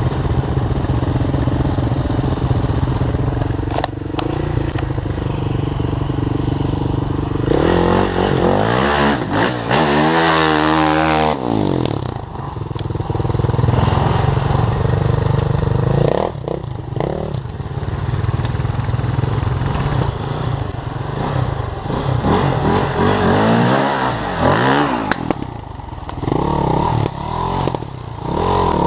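Enduro dirt bike engines running and revving as they are ridden. The pitch climbs and falls sharply about a third of the way in, with several shorter rises and falls near the end.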